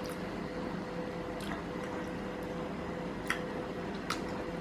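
Wet chewing and mouth sounds of someone eating chicken biryani: a few short, faint smacks over a steady background hum.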